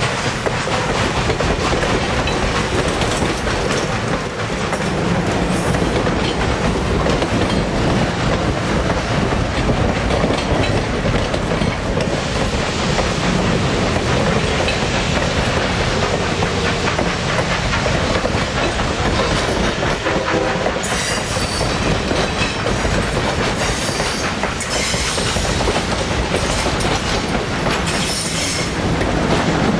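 Steam train rolling past close by: a steady loud rumble with the wheels clattering over the rail joints, and sharper high-pitched wheel noise in the last third.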